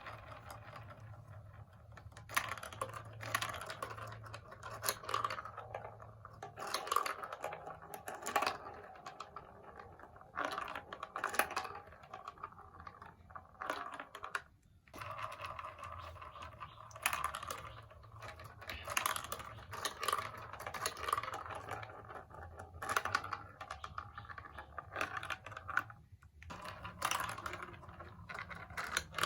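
Plastic marble-run building blocks clicking and clattering, with irregular clusters of sharp clicks over a steady rattle.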